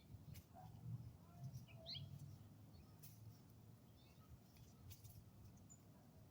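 Quiet outdoor ambience: a small bird gives a couple of faint short chirps about two seconds in, over a low rumble of wind on the microphone, with a few light clicks.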